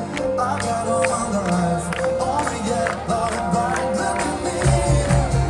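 Folk-rock band playing live, with a melodic line over a steady pattern of light percussion strokes. Near the end a heavy pulsing bass and drum beat comes in and the music grows fuller and a little louder.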